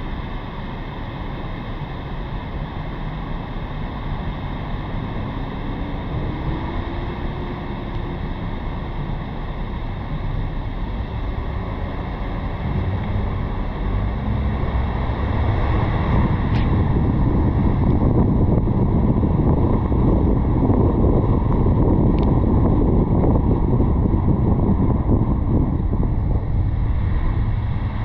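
Wind rushing over a roof-mounted car camera's microphone, mixed with road noise from the moving car. The rush grows louder about halfway through.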